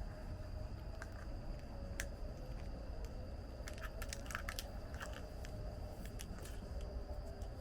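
Scattered light clicks and small rattles of parts being handled, several close together about four seconds in, over a steady high-pitched tone and low background rumble.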